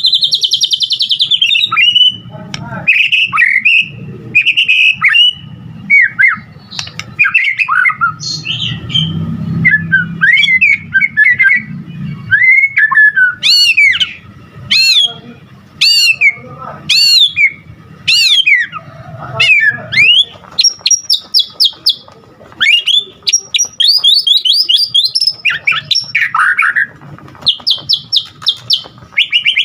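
White-rumped shama (murai batu) singing loudly and without pause: a varied song of gliding whistles, a run of sweeping notes about once a second midway, and fast rattling trills near the end, packed with phrases mimicked from other birds.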